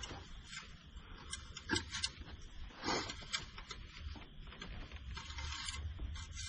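Scattered light clicks and brief rustling of hands working under the hood, with a couple of louder knocks in the first half, over a low steady hum.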